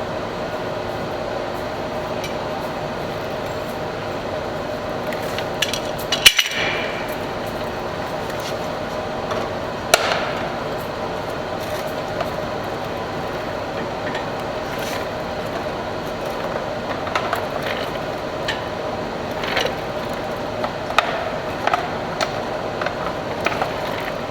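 Scattered sharp metal clinks and knocks, as of tools being handled, the loudest about six seconds in, over a steady mechanical hum.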